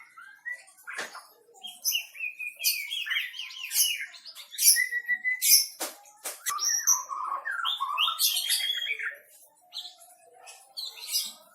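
White-rumped shama singing: varied phrases of clear whistles and fast trills, with short pauses between phrases and a few sharp clicks.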